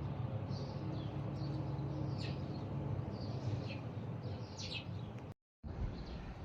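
Small birds chirping repeatedly over a steady low rumble. The sound drops out completely for a moment about five seconds in, then resumes.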